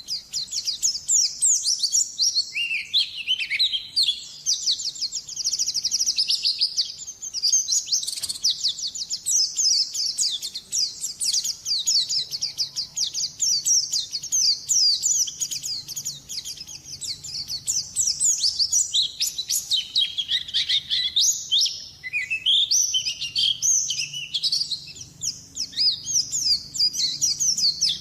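Pleci (white-eye) singing a fast, continuous twittering song of high chirps and trills, in long runs with only brief pauses. This is the vigorous 'gacor' song prized in competition birds.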